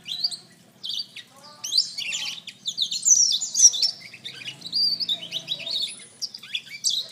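Blackthroat (black-throated canary) singing a fast, varied twittering song of high sweeping and trilling notes, with a brief pause just after it begins.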